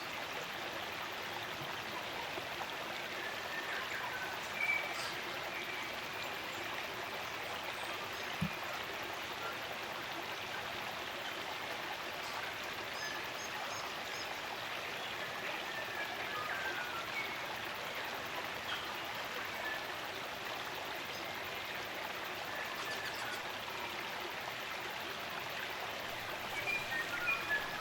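Spring-fed stream running steadily, with small birds calling now and then above it; a few louder chirps come near the end, and there is a single click about eight seconds in.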